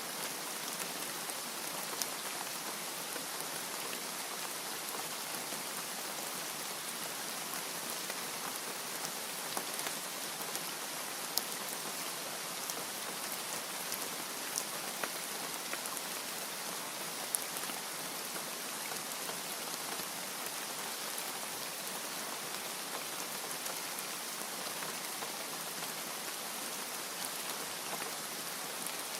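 Steady rain falling, an even hiss with occasional individual drops ticking sharply on a surface.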